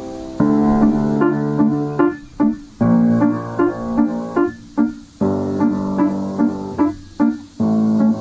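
Background piano music: a keyboard playing held chords that change about every two and a half seconds, with short notes picked out between them.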